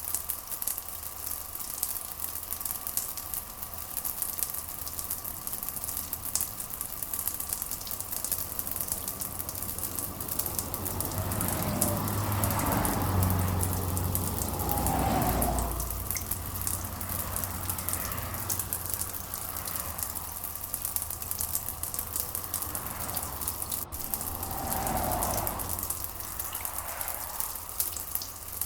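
Steady rain with a constant patter of drops. A low rumble swells up about eleven seconds in and fades by sixteen, and a smaller one comes near the end.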